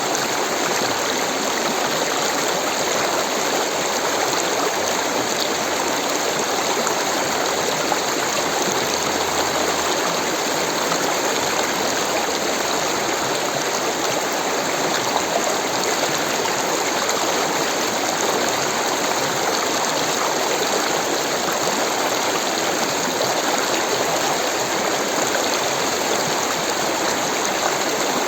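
Rushing water: a steady, even rush with no breaks.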